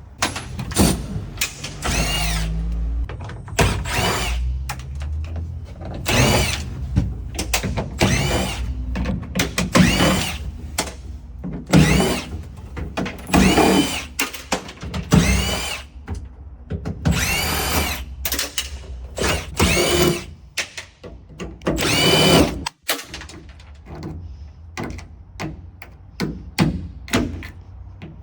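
Cordless power drill run in many short bursts of about a second, its whine rising and falling in pitch with each squeeze and release of the trigger, working on the BMW E36 body shell.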